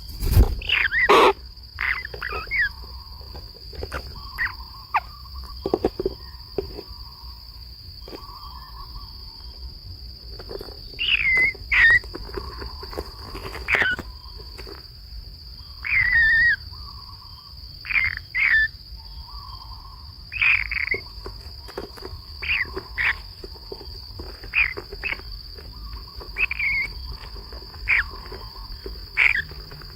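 Steady high-pitched insect drone running under a string of short, chirping bird calls that come every second or two, each a quick curved note. A sharp knock sounds right at the start.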